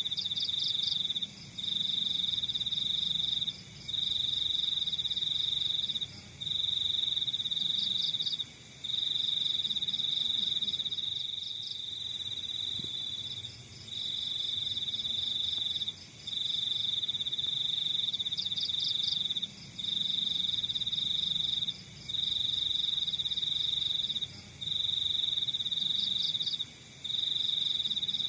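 Crickets trilling: one high, steady trill repeats in long bouts of about two seconds, broken by short pauses, while another cricket adds short pulsed chirps a little higher in pitch every few seconds.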